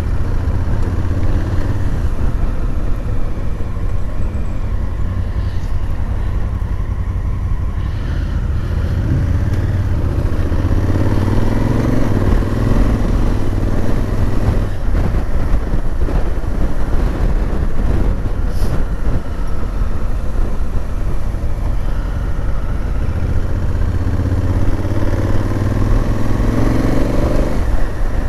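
Honda Africa Twin's parallel-twin engine under way, heard from the bike with road and wind noise. The engine note rises as it pulls up through the revs several times, each time falling away sharply at a gear change.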